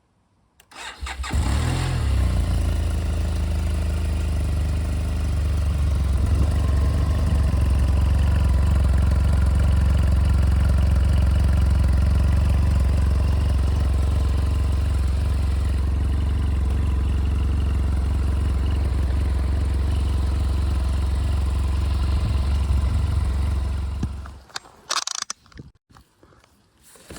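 BMW F800R motorcycle's parallel-twin engine starting about a second in, then idling steadily before being switched off near the end, followed by a few faint clicks.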